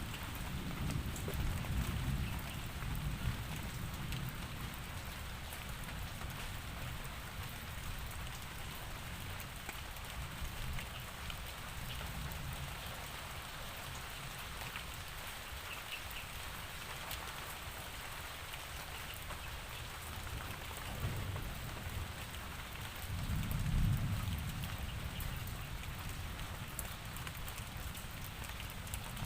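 Steady rainfall, an even hiss of drops with fine patters, broken by deep low rumbles near the start and again near the end.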